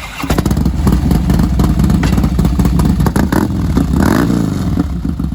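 2010 Harley-Davidson Fat Boy Lo's 96 cubic inch V-twin firing up and running loudly through its wrapped exhaust, with a rapid, uneven chain of firing pulses.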